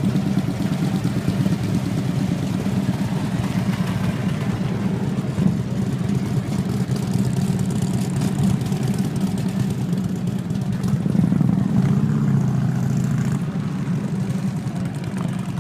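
Motorcycle engines running at idle in a steady mass, with the engine noise swelling briefly about eleven seconds in.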